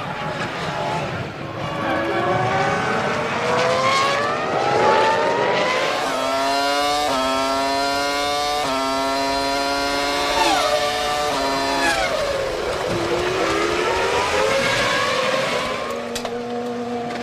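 Formula One cars' 3.0-litre V10 engines at racing speed, rising in pitch under acceleration. From about six seconds in, one engine holds a high steady note for several seconds with small steps in pitch. It drops sharply as it lifts for braking, then climbs again.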